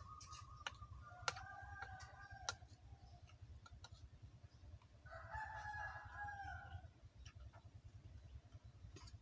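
A rooster crowing twice, faint, the first crow near the start and the second about five seconds in, with scattered sharp clicks between.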